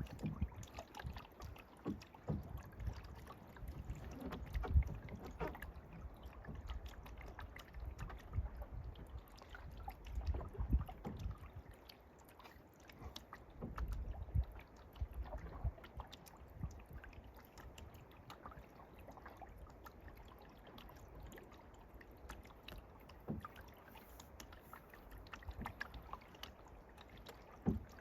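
Canoe paddling: water splashing and dripping off the paddle with occasional light knocks, over a low rumble, busier in the first half and calmer after about halfway.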